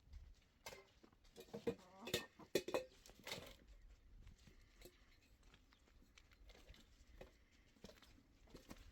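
A few short animal calls bunched between about one and three and a half seconds in, over a faint background.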